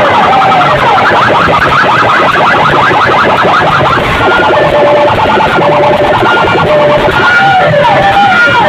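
Siren and alarm effects played very loudly through a DJ sound-box speaker rig: stepped falling tones, then a run of fast rising chirps, then alternating two-note beeps, before the falling tones return near the end.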